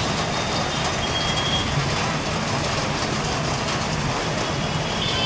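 Traffic jammed on a waterlogged road: vehicle engines running under a steady hiss, with a short high beep a little over a second in.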